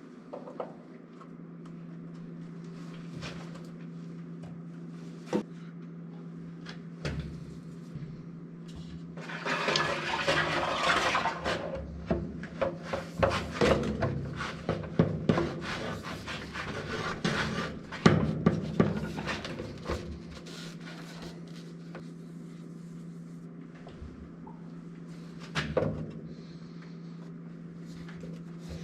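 Irregular knocks, clicks and rubbing, as of parts and tools being handled, busiest in the middle stretch, over a steady low hum.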